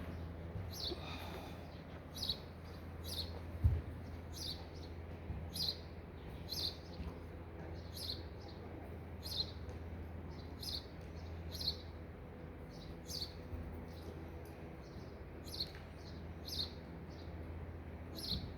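A small bird chirping over and over, short sharp chirps about once a second, above a steady low hum. A single dull thump comes a few seconds in.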